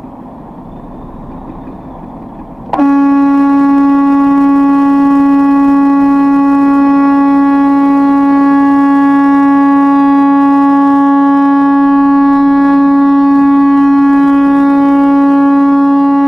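Car horn held down in one long, unbroken, steady blast, starting about three seconds in after a few seconds of low road noise.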